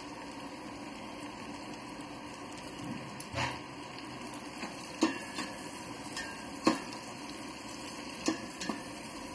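Sliced onions and chopped capsicum frying gently in oil in a stainless steel pot, a steady sizzle, while a metal ladle stirs them and knocks sharply against the pot four times from about three seconds in.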